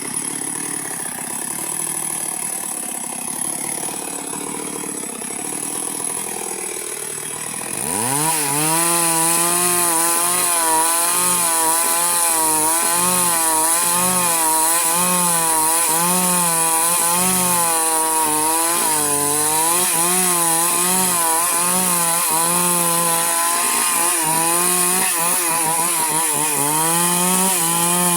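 Two-stroke chainsaw at low idle, then revving up sharply about eight seconds in and running at full throttle as it cuts through wood, its engine pitch dipping and recovering again and again under the load of the cut.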